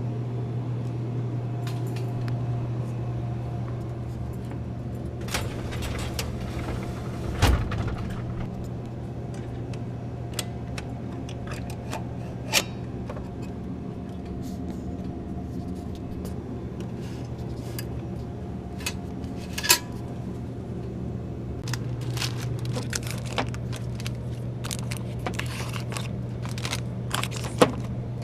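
Steady low hum of a vehicle running, with scattered sharp clicks and rattles that sound like keys jangling.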